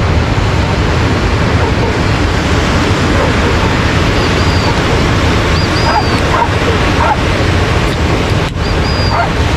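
Steady ocean surf washing on the beach, with a few dogs barking faintly through it.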